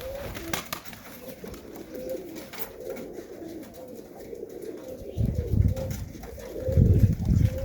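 Domestic pigeons cooing repeatedly in the loft. Two loud, low rumbles come in the second half, the second one longer.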